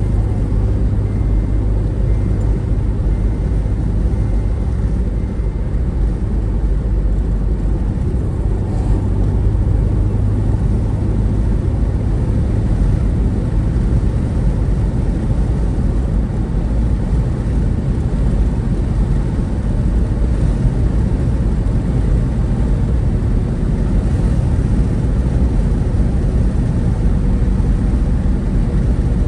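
Steady low rumble of a road vehicle travelling at speed, engine and road noise mixed.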